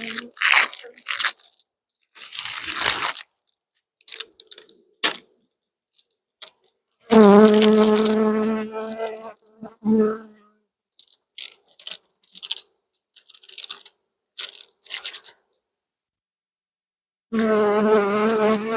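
Honey bees buzzing close by in two stretches, one about seven seconds in lasting a few seconds and another starting near the end. Between them are bursts of crinkling and rustling as a pollen patty is handled onto the hive frames.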